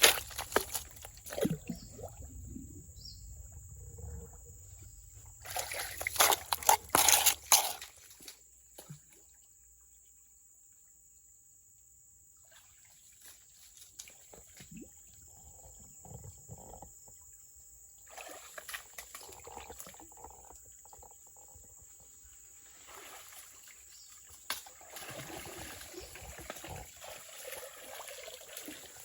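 Water splashing and trickling in irregular bursts, loudest about six to eight seconds in, then settling to a steady trickle near the end.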